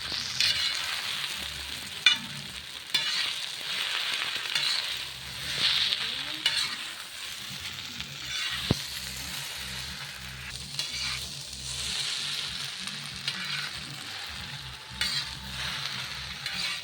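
Chicken chow mein noodles sizzling in a hot kadai while being stirred and mixed. The hiss swells and fades with the stirring, with a few sharp clicks of the utensil against the pan.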